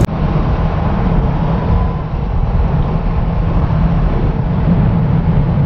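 Benelli 600i's inline-four engine running at a steady cruise, heard from on board while riding, with a steady rush of wind and road noise.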